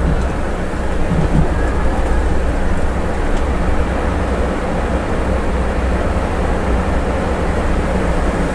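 Scania bus engine and road noise heard from the driver's seat, a steady low rumble with a hum underneath, while driving through a road tunnel.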